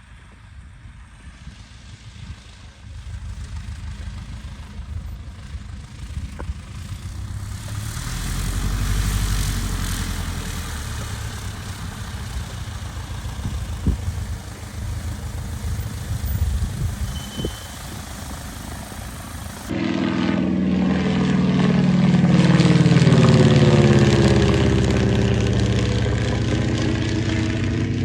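Cirrus SR22's piston engine and propeller droning in the cockpit, with rushing air noise that grows louder. About 20 seconds in the sound changes abruptly to a louder, strongly pitched engine drone whose tone slowly falls.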